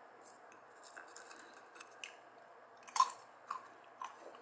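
Peanuts being chewed: a run of short, crisp crunches, the loudest about three seconds in.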